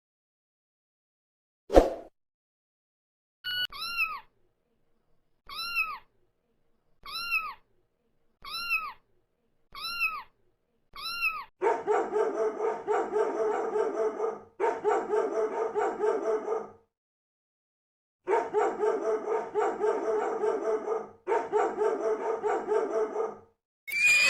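Domestic cat meowing seven times, about one call every second and a half, each call rising and falling in pitch. After this come two long runs of rapid, pulsing animal calls, several pulses a second.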